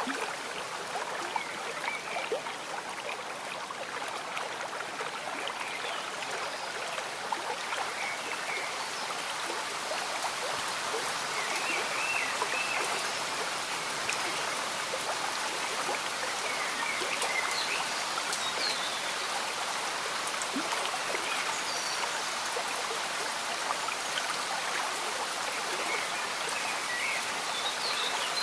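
A gentle stream bubbling steadily under falling rain, with many small raindrop patters. Faint short chirps are heard now and then.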